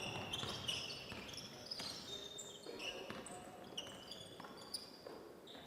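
Basketball game play: sneakers squeaking in many short, high chirps on a hardwood gym floor, with a basketball bouncing.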